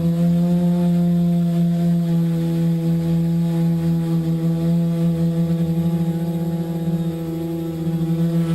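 Multirotor drone's electric motors and propellers humming at a steady pitch, with a wavering, beating loudness.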